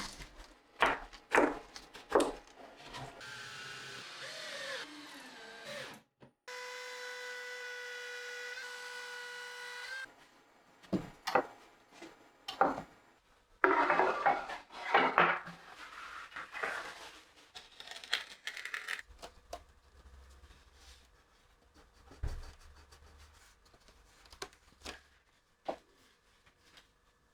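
Workshop sounds of wooden parts being knocked and rubbed. A steady machine whine runs through the first ten seconds, broken briefly a little after six seconds, then gives way to separate knocks and a few seconds of rubbing. It thins to occasional light clicks near the end.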